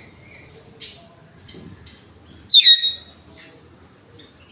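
Indian ringneck parakeet giving one loud, shrill squawk that falls in pitch, about two and a half seconds in, after a few soft high chirps.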